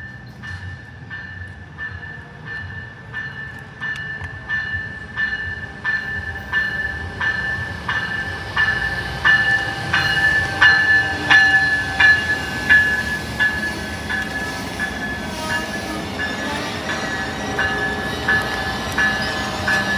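A bell ringing steadily at about one and a half strikes a second, growing louder as an approaching Amtrak passenger train's rumble builds from about the middle.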